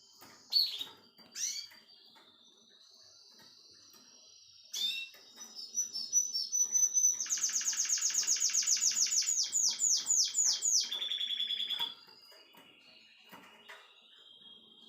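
Russian song canary singing: a couple of sharp chirps, a long thin whistle, then a loud, fast, even trill lasting about four seconds that drops into a short lower trill, fading to soft drawn-out notes near the end.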